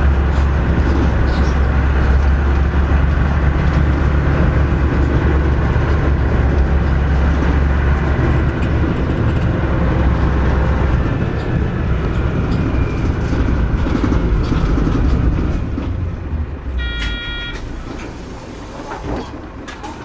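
Mitsubishi Fuso KC-MP317M Aero Star city bus engine running under way, heard from inside the cabin, with a deep low drone. The running sound falls off from about three quarters of the way in as the bus slows down. A short electronic chime sounds near the end.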